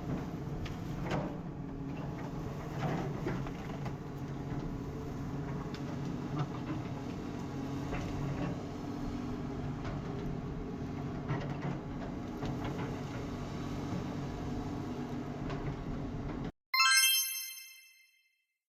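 Excavator diesel engine running steadily, with a few knocks and clanks, cuts off suddenly about four fifths of the way in. A bright chime then rings once and fades.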